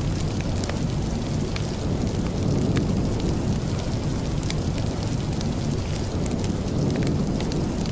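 Steady rain ambience with a deep, even rumble underneath and many small sharp ticks scattered through it.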